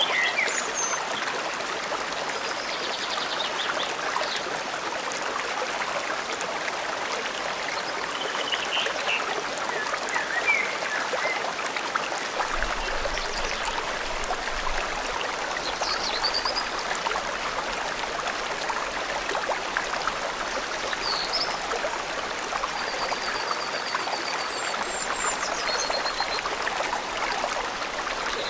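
Forest stream flowing and trickling steadily, with short bird chirps and a rapid trill or two above it now and then.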